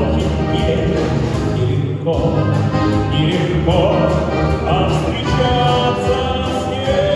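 Singing with orchestral accompaniment. A sung note with vibrato is held through the last couple of seconds.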